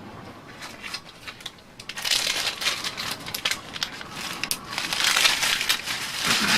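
Plastic trash bag rustling and crinkling close to the microphone, loud and crackly from about two seconds in, after a few light clicks.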